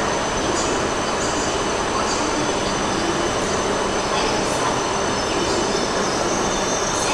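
A train running on the rails: a steady rushing noise with thin, high, steady squealing tones from the wheels.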